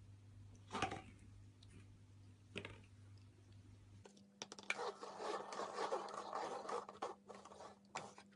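Scratching and rustling on a surface with sharp clicks, busiest in the second half. A faint low hum stops about halfway through.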